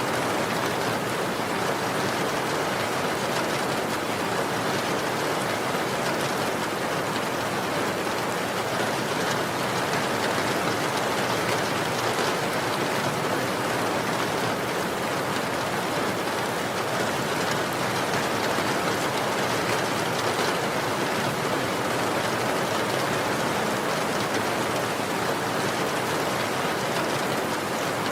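Steady rain falling, an even continuous hiss of many drops with no distinct single impacts.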